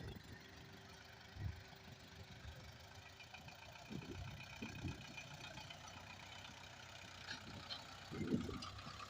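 Tractor diesel engine idling steadily and fairly faintly, with a few brief louder swells.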